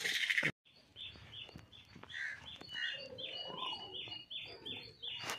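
A small bird chirping over and over, about two to three short high calls a second, with fainter calls behind. It is preceded by a brief rustle of grain that cuts off suddenly about half a second in.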